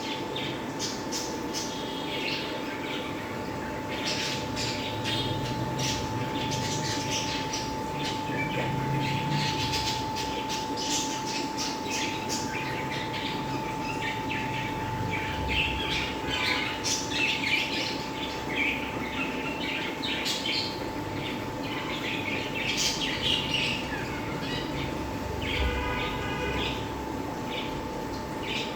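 Birds squawking and chirping in many short calls, over a steady high hum.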